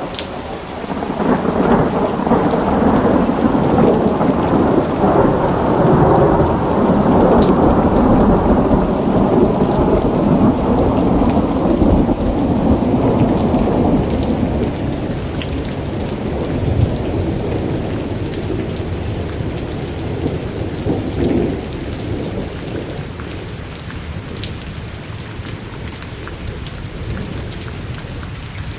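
Thunderstorm: rain falling steadily while a long rolling thunder rumble builds about a second in, stays loud for around ten seconds, then slowly dies away, with a smaller swell shortly before it fades out.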